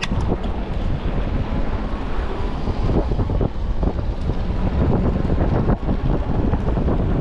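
Wind buffeting an action camera's microphone during an e-bike ride: a loud, steady low rumble broken by many short thumps and rattles.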